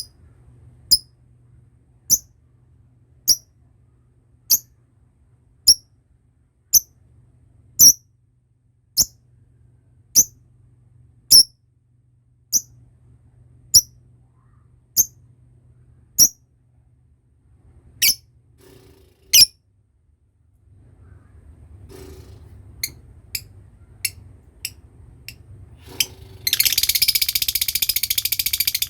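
Lovebird giving single sharp, high chirps about once a second, then softer, quicker chirps. Near the end it breaks into a continuous rapid high chatter, the long 'ngekek' trill that lovebird keepers prize.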